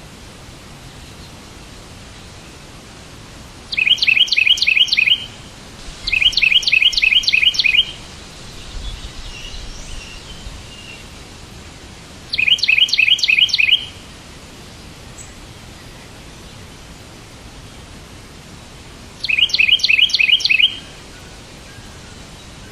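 A bird calling in four short bouts of rapid, evenly repeated high chirps, about five a second, over a steady hiss, with softer chatter in between.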